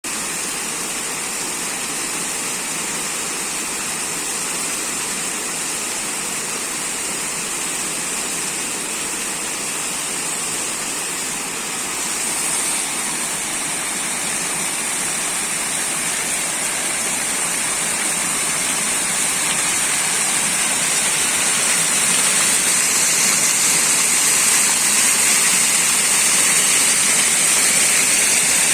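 Waterfall: a steady rush of falling water that grows gradually louder in the second half.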